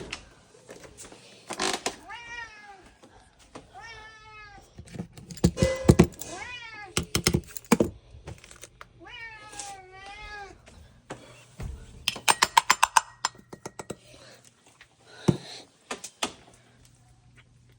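A cat meowing, about four drawn-out meows that bend up and down in pitch, spread through the first ten seconds. Between them come a few sharp knocks, loudest about six seconds in, then a quick run of clicks about twelve seconds in and a single knock near the end.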